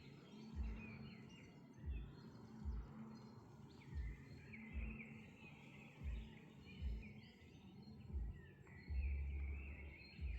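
Small birds chirping and twittering, with dull low thumps about once a second and a longer low rumble near the end.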